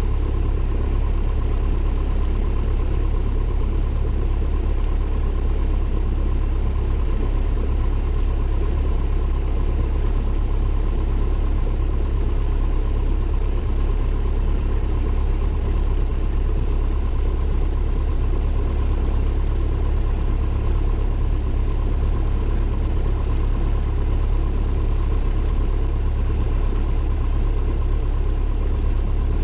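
Cessna 172N's four-cylinder piston engine and propeller running steadily in flight, heard inside the cockpit as an even, unchanging low drone with a faint steady tone above it.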